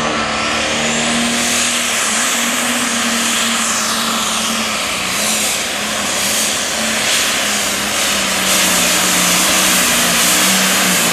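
Triple-turbocharged diesel engine of a super stock pulling tractor running flat out under load, with a turbo whistle rising in pitch about a second in.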